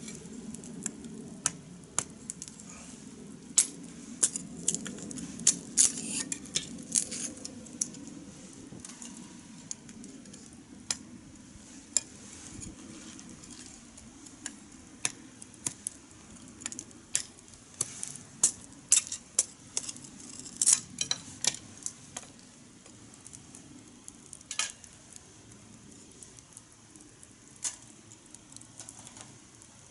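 Wood fire in a fire-pit stand crackling, with irregular sharp pops and snaps over a low steady rush of flame.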